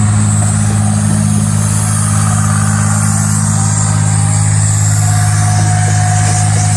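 Diesel engine of a slow-moving CSX maintenance-of-way rail train running steadily with a deep, even hum.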